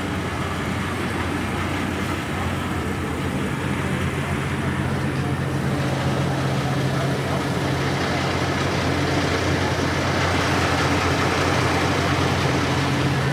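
A motor vehicle's engine running steadily with road noise, a continuous low hum that grows a little louder about halfway through.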